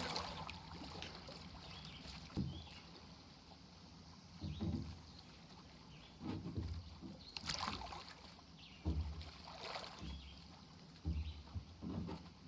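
Soft, irregular water splashes and sloshing, like a person moving through lake water, coming every second or two.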